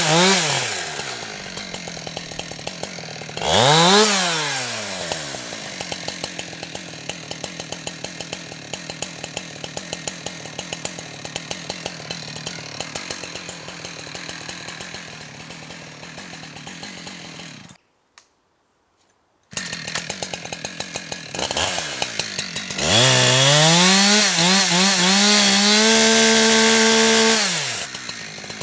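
Two-stroke chainsaw revving and dropping back to idle, with a short blip of throttle about four seconds in, then idling with a steady putter. After a brief dead gap about two-thirds of the way through, it is held at high revs for about five seconds and then falls back to idle near the end.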